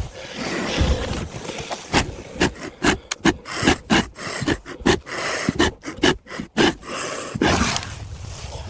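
Rapid panting breaths, about three a second, over rustling and scraping; the breaths start about two seconds in and stop about seven seconds in.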